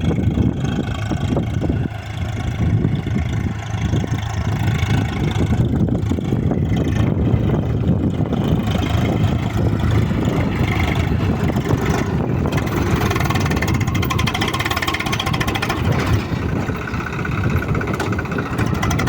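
Swaraj 735 FE tractor's three-cylinder diesel engine running steadily as the tractor works through a muddy field.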